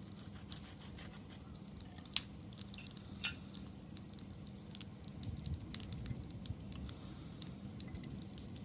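Wood fire crackling: scattered small pops and snaps of burning wood, with one sharp, louder pop about two seconds in.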